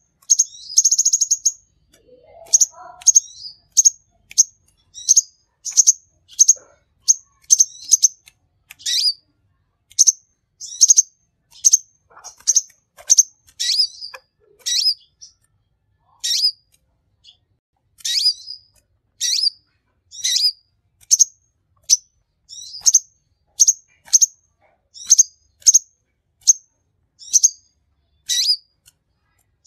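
King konin, a small sunbird of the Indonesian bird-keeping hobby, calling hard: a long run of short, sharp, high-pitched chirps about one or two a second, with a brief buzzy trill about a second in.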